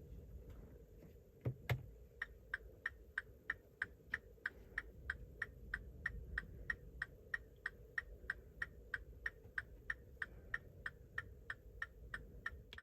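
Rapid, even electronic ticking from the Mini Clubvan's interior, about three clean pitched ticks a second, the kind of ticking a car's indicator or warning sounder makes. A click and a soft thump come just before the ticking starts.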